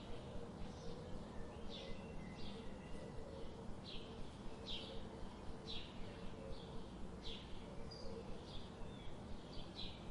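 Birds chirping: short, high chirps repeated about twice a second over a steady low background noise.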